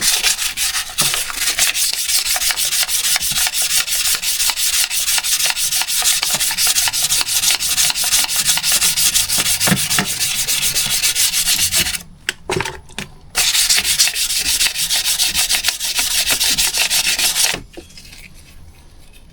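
Wet-and-dry abrasive paper rubbed in quick back-and-forth strokes on a Porsche M96 crankshaft, a fast scratchy rasping that polishes out wear marks. It stops briefly about two-thirds of the way through, then carries on and stops shortly before the end.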